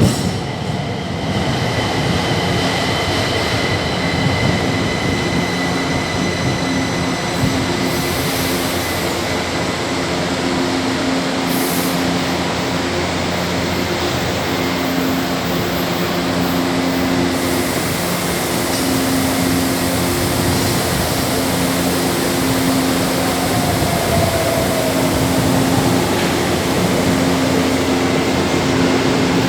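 A São Paulo Metro train running through the station, a steady loud rumble of wheels on rail with a traction-motor hum that comes and goes.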